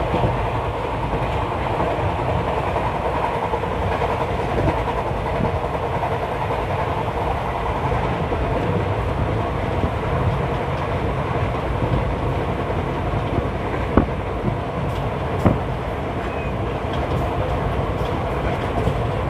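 Running noise of an Indian Railways superfast express at speed, heard from inside a coach at its barred window: a steady rumble of wheels on rail. Two sharp clacks come about a second and a half apart, late on.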